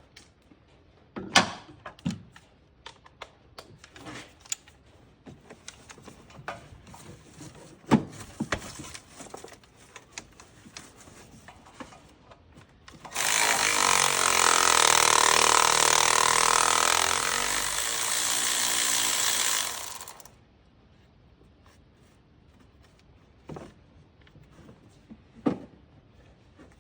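Metal clicks and knocks of parts and hand tools being handled. About halfway in, a power tool runs steadily for about seven seconds, then stops.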